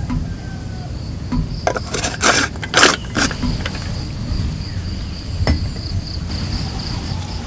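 A steady high-pitched insect trill over a low rumble, with a few sharp clicks and a loud burst of rustling clatter about two to three seconds in.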